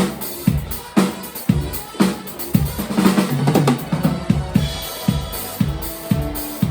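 Live band music led by a drum kit: kick and snare hits about twice a second, with a quick drum fill a little past the middle and held notes from other instruments.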